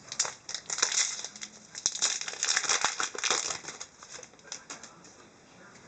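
Foil wrapper of an Upper Deck hockey card pack crinkling as it is opened and handled, in quick crackly bursts for about four seconds before dying away.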